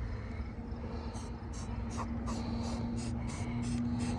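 Rhythmic scratchy rubbing strokes, about three a second, starting about a second in, as paint is worked onto the car's surface by hand, over a steady low hum.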